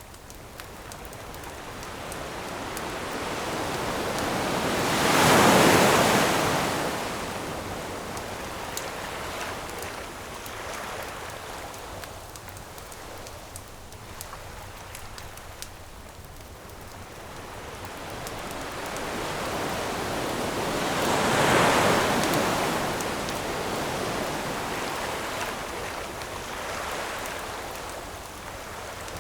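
Ocean waves breaking on a shore: two big swells build and wash in, about five seconds in and again about twenty-one seconds in, over a steady surf hiss. The scattered small pops and crackles of a campfire run throughout.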